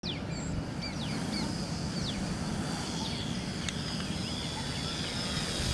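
Birds chirping with short rising and falling calls, mostly in the first half, over a steady low background rumble.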